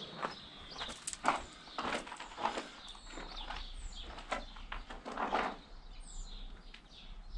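Small birds chirping in short high notes, over several irregular scuffing sounds.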